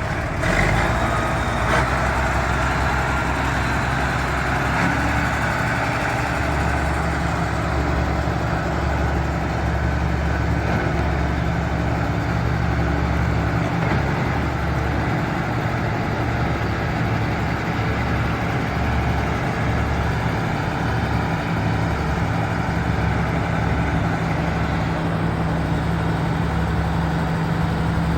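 Case 4690 four-wheel-drive tractor's turbocharged diesel engine running steadily at idle.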